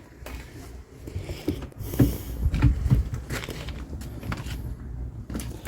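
Footsteps and scattered knocks on the old boat's floor and woodwork, the heaviest thuds about two to three seconds in, over a steady low rumble.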